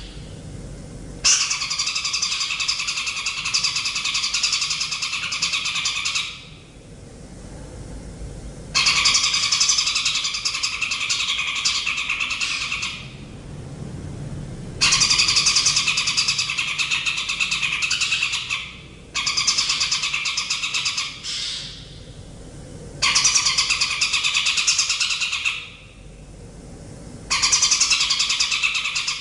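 A rapid, buzzing trill from a bird-training master recording, repeated in about six bursts of two to five seconds each, separated by pauses of a second or two.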